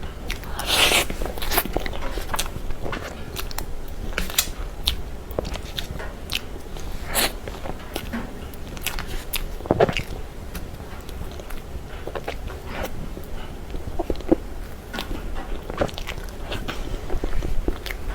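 Close-miked eating of soft cream cake: bites and wet chewing with irregular sticky mouth clicks, one fuller, longer bite about a second in.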